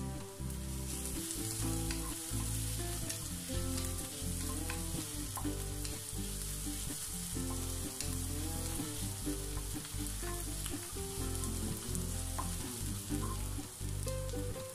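Onions, garlic and ginger sizzling in hot oil in a frying pan, stirred and scraped around with a wooden spatula. Low background music runs underneath.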